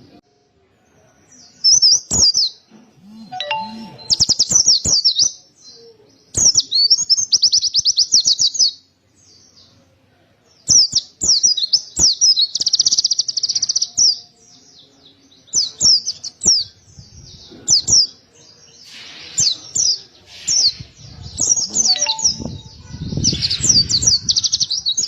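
White-eye (pleci) singing vigorously in repeated bursts of fast, high chattering trills, each phrase lasting a second or several, separated by short pauses. Sharp clicks are scattered between the phrases.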